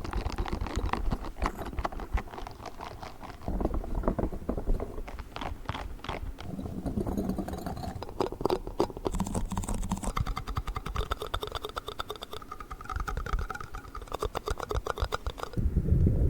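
Fast ASMR tapping and scratching on objects held close to the microphone: a dense run of quick clicks that changes in character every few seconds.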